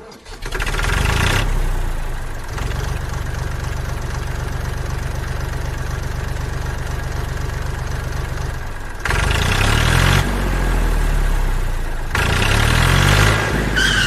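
Small engine-like motor of a DIY mini tractor running with a steady, rapid chugging, speeding up briefly twice near the end.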